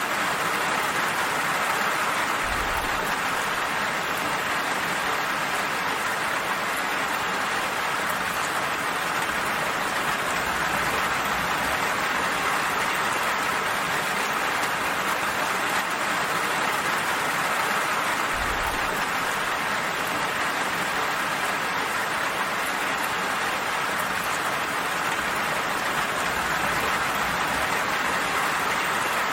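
Steady, gentle rain falling with an even, unbroken hiss.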